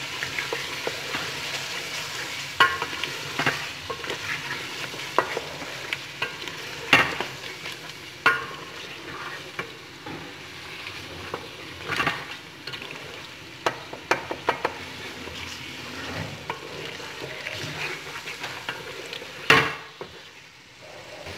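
Mutton masala sizzling in hot oil in a metal pot while a spatula stirs and scrapes through it, with sharp knocks of the spatula against the pot every few seconds, the loudest near the end. This is the bhuna stage, the meat and spice paste being fried down.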